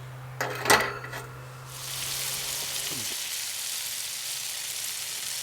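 Food sizzling steadily as it cooks, starting about two seconds in. Before that, a short clatter with one loud knock under a second in.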